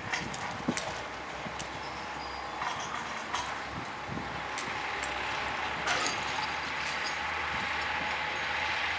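Scania 112 M truck's diesel engine running steadily, with a few sharp clinks and knocks over it, the loudest about six seconds in.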